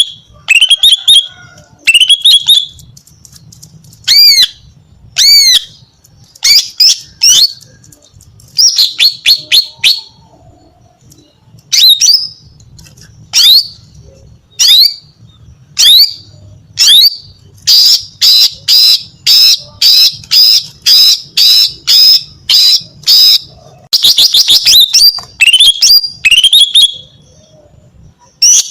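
Female greater green leafbird (cucak ijo) calling: short, sharp, high notes slurred downward, given in quick groups with short pauses between them. A little past halfway comes a run of about a dozen evenly spaced notes, followed by a faster rattle.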